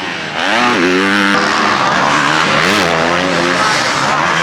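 Motocross bike engines revving on the track, the pitch climbing and falling repeatedly as the riders work the throttle, getting louder about half a second in.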